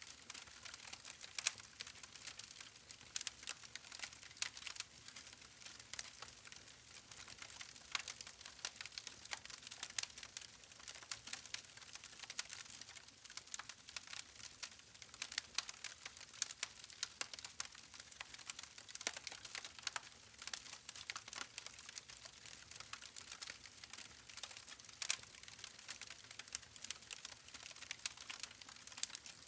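Wood fire crackling: many irregular sharp pops and snaps from burning logs over a steady hiss.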